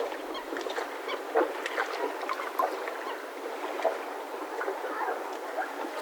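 Mooring ropes of boats in a yacht harbour creaking and squeaking as the moored boats shift, many short irregular squeaks over a steady background wash.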